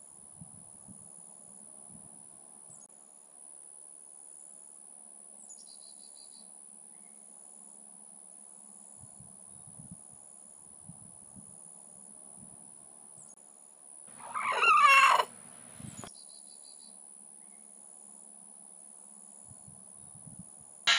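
Insects trilling: a steady high-pitched drone with faint chirps repeating about once a second. About fourteen seconds in, one loud call of about a second, wavering in pitch, cuts across it.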